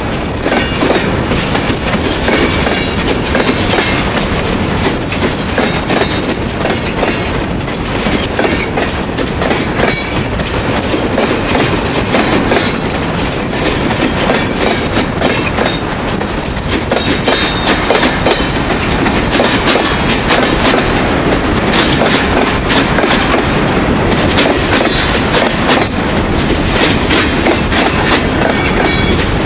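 Freight wagons of a long train rolling past close by: a steady rumble of steel wheels with dense clacking and rattling as they run over the rails. The track under them has been freshly ballasted but not yet aligned.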